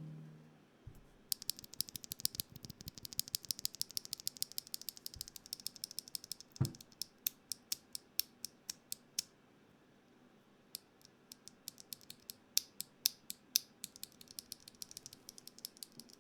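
Rapid runs of small, sharp mechanical clicks, like a ratchet, from keyboard parts and tools being worked during assembly, with one louder knock about six and a half seconds in and a short pause near the middle.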